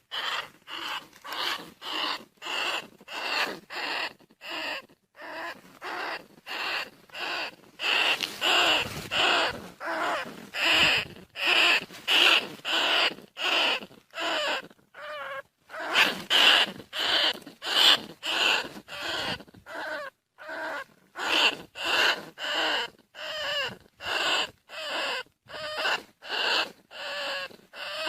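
Bandicoot rat squeaking over and over, short pitched calls about two a second, played as a lure call to draw in rats or predators.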